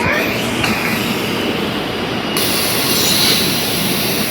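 SEPTA electric commuter train running past, a steady rumble of wheels on rail. A high-pitched wheel squeal joins about two and a half seconds in.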